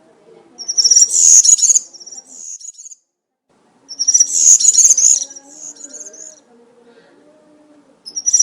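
European serin singing in the wild: high, fast jingling song phrases of about two to two and a half seconds each, one starting about half a second in, another about four seconds in, and a third beginning near the end.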